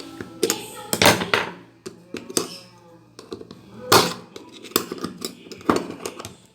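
Hard objects being handled and knocked together: about nine sharp knocks and clicks at irregular intervals.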